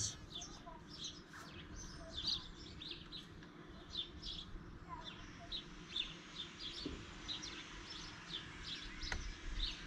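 Garden birdsong: many short, high chirps and calls that keep coming, fairly quiet over a faint low background hum.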